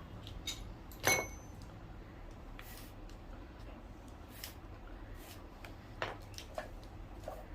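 A few light taps and knocks of hard objects being handled, with one ringing clink about a second in, over a steady low hum.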